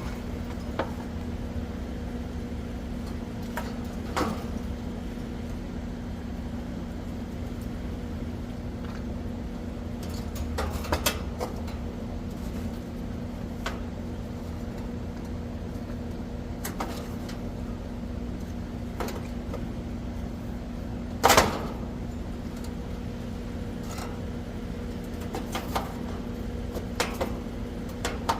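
Steady mechanical hum of an outdoor air-conditioning condenser unit running, broken by scattered clicks and knocks from handling the unit's panels and parts, with one sharp knock about 21 seconds in.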